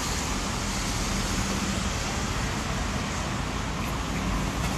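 Steady road traffic noise: an even hiss and rumble of passing cars with no distinct events.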